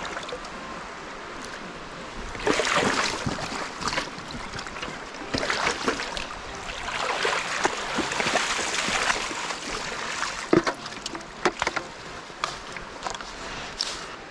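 Water splashing and swishing as a hand net is swept and shaken through a stream's shallows, in uneven surges over the steady rush of the stream, with a few sharp knocks about ten to twelve seconds in.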